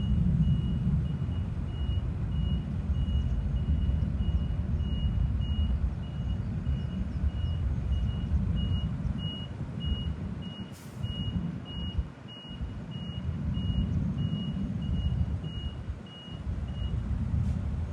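A vehicle's reversing alarm beeping evenly at one high pitch, about twice a second, stopping shortly before the end, over a steady low rumble.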